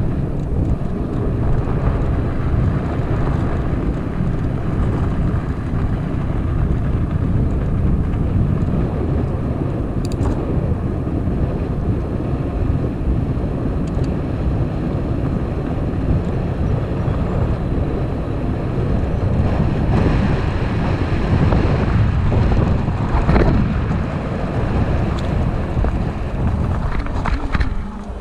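Steady wind rush on the microphone and tyre noise from an e-bike being ridden.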